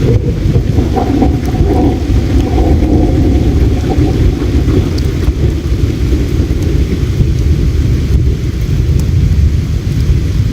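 Steady low rushing of flowing river water, with a few faint crackles from a campfire.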